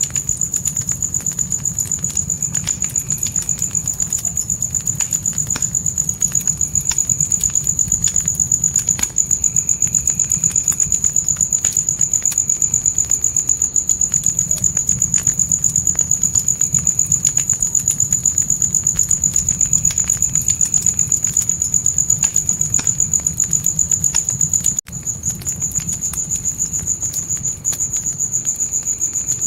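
Crickets trilling continuously in a high, rapidly pulsing chirp over a low fire rumble, with scattered crackles and pops from burning wood. The sound dips out briefly near the end.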